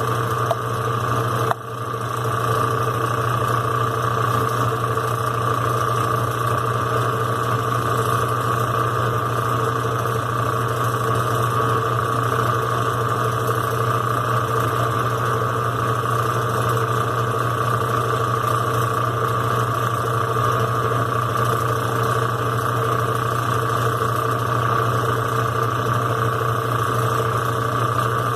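Brastemp BWQ 24 washing machine running with a steady motor hum, with a single click about a second and a half in.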